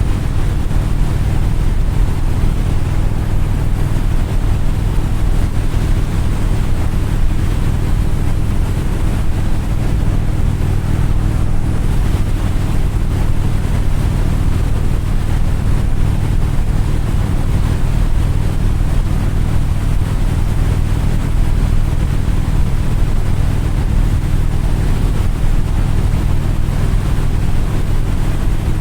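An engine running steadily with a low, even hum, under a constant rush of wind noise.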